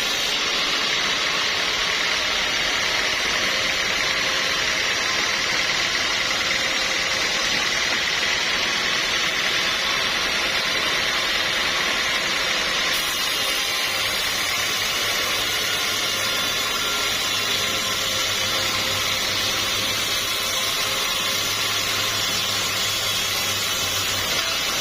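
Sawmill machinery running steadily: a continuous loud machine noise, with a low hum joining about halfway through.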